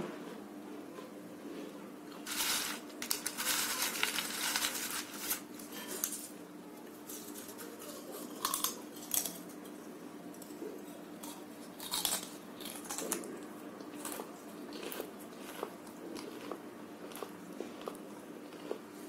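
Close-up chewing and crunching of crisp fried papdi gathiya: a dense run of loud crunches a couple of seconds in, then scattered single crunches and mouth clicks, over a steady low hum.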